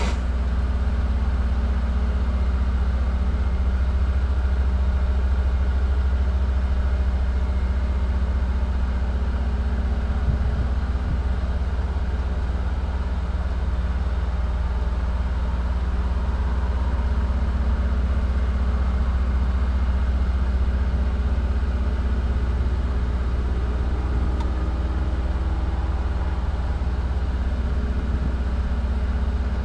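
Vehicle engine idling while parked, a steady low rumble with a constant hum, heard from inside the cab.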